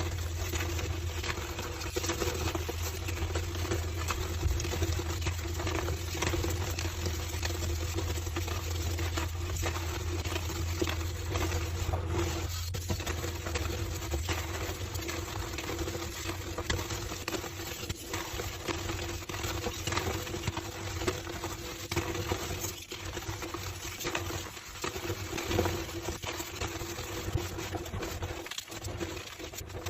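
Homemade slabs of gym chalk being crushed and crumbled, a dense, continuous run of small crunches and crackles over a steady low hum.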